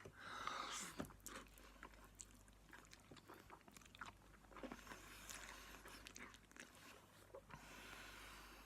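Faint mouth sounds of eating spicy ramen: soft chewing clicks and a few hissing breaths.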